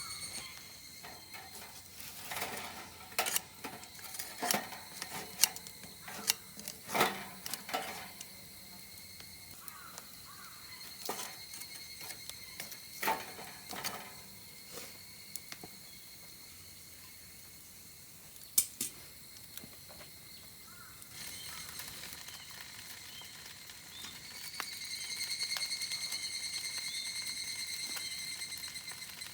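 Scattered clinks and knocks of camp cookware and utensils being handled, over a steady high-pitched insect drone that grows louder again in the last few seconds.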